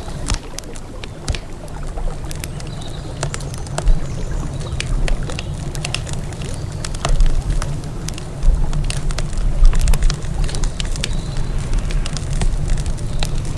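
Campfire of burning wood crackling, with frequent irregular sharp pops and snaps over a steady low rumble that swells a few times.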